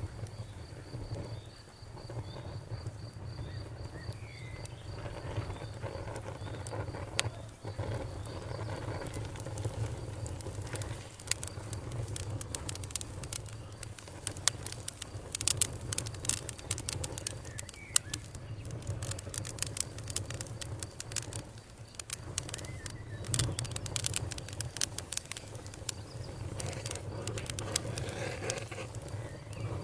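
Campfire burning, its wood giving off sharp crackles and pops that grow thicker after the first third, over a steady low rumble. An insect keeps up a high, fast-pulsing trill through the first several seconds.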